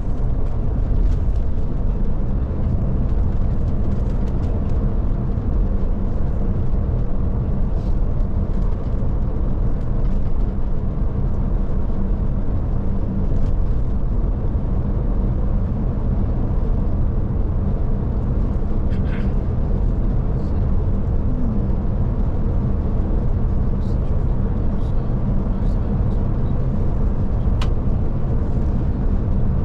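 Scania Touring coach on the move, heard from inside the cabin: a steady drone of diesel engine and road rumble at an even speed, with a few faint ticks and rattles.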